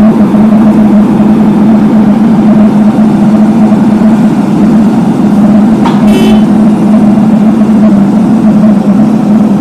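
Engine of a heavy asphalt-paving machine running loudly and steadily at close range, with a deep, even hum. About six seconds in there is a short high-pitched squeal.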